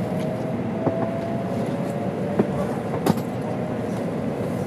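Inside the cabin of an N700-series Shinkansen under way: a steady rumble and hiss with a thin whine that climbs slowly in pitch as the train gathers speed, and a few sharp clicks.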